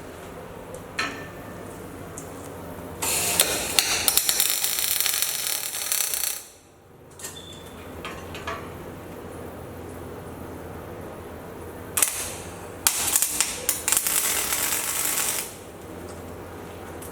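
Electric arc welding: two spells of crackling, sputtering arc, the first about three seconds long and the second about two and a half, over a steady low hum.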